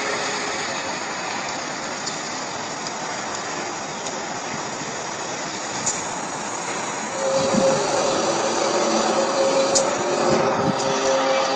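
A steady droning hum of several held tones over a noisy rumble, of the kind passed around as mysterious 'sky trumpet' sounds. It fades, then swells back louder about seven seconds in.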